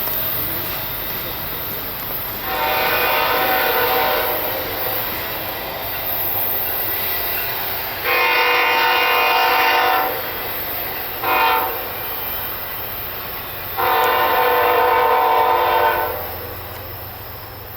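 Locomotive air horn sounding the grade-crossing signal of two long blasts, one short and one long, as a chord of several tones over the steady rumble of the train.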